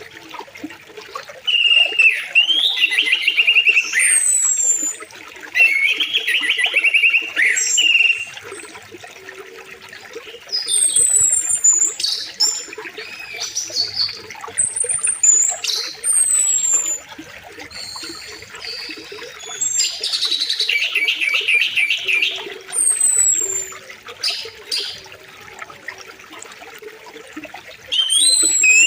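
Several songbirds singing over a steady flow of river water: repeated trilled phrases of about two seconds each, with high, thin, falling whistles between them.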